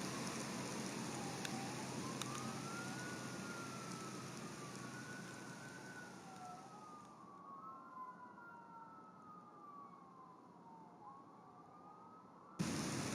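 Distant siren wailing in slow rising and falling sweeps, over steady rain hiss. The rain noise thins out in the second half and comes back suddenly near the end.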